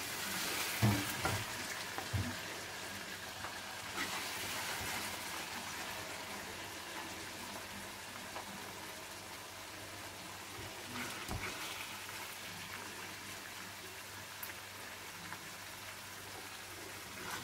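Beef and turnip curry sizzling in the hot oil of a wok on a switched-off stove, a steady hiss that slowly grows quieter. A few light knocks of the spatula against the wok and plate, mostly in the first couple of seconds.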